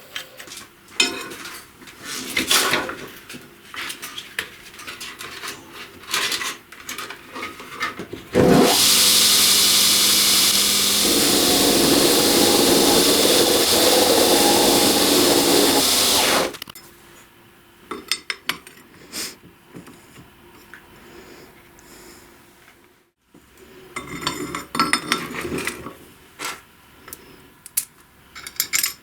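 Clinks and knocks of metal parts and tools being handled. About eight seconds in, a power tool starts and runs loudly for about eight seconds, its note changing partway through, then stops abruptly. The clinking and knocking then resume.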